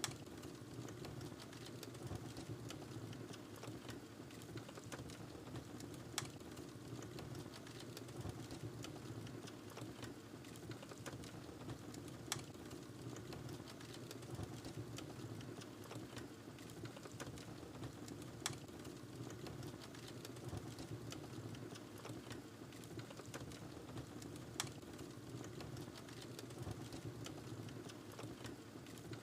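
Wood fire burning in a fireplace: a steady low rumble of flames under fine, continuous crackling, with a louder sharp pop from the burning logs about every six seconds.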